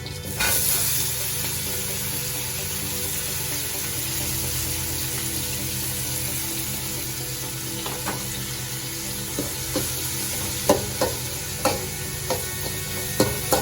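Chopped tomatoes sizzling in hot groundnut oil with shallots, green chillies and curry leaves, with a louder burst of hissing about half a second in. From about eight seconds in, a spoon knocks against the pan as the mixture is stirred.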